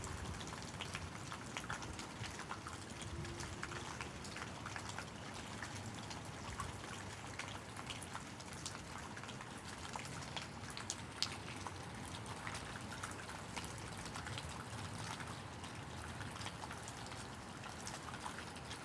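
Pouring rain falling steadily, with many separate drops ticking and splashing through the steady hiss.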